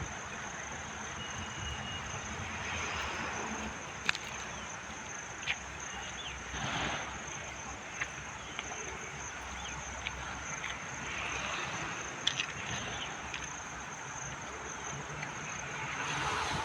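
Outdoor ambience: a steady high-pitched drone over a low hiss, with scattered light clicks and a few short chirps.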